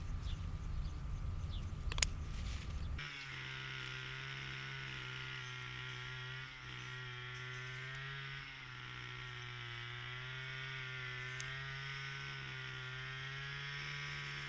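A small engine running steadily at an even pitch. It sets in about three seconds in, after a rougher low rumbling noise with a single sharp click.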